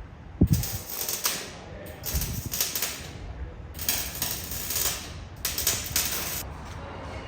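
A power tool working on the exhaust runs in four short bursts of about a second each, mostly hiss. A low thump comes just before the first burst and is the loudest sound.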